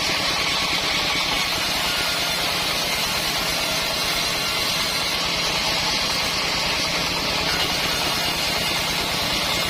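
Homemade band sawmill running steadily: an engine drone under a continuous high rushing noise, with no change in pace.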